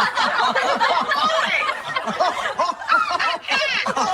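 Several people laughing together, overlapping chuckles and snickers.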